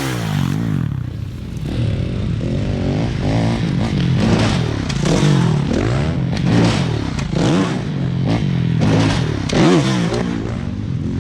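Motocross dirt bike engines revving, their pitch rising and falling again and again as the riders go on and off the throttle around the track.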